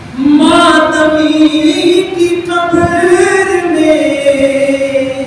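A man's voice chanting a long drawn-out melodic line of Shia devotional recitation (peshkhwani), holding notes that slide slowly up and down in pitch. No instrument or beat is heard.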